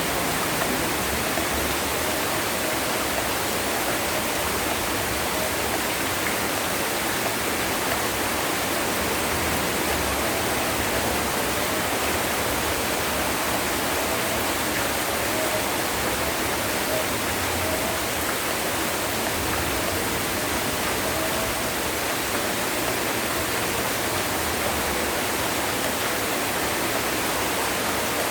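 Heavy rain falling steadily, a dense and even hiss with no thunder.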